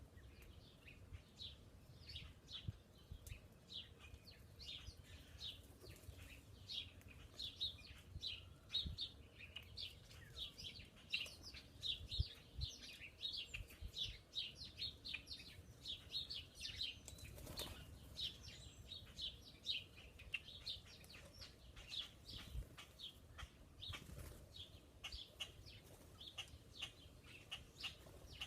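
Small songbirds chirping: a steady stream of short, high chirps, several a second, throughout.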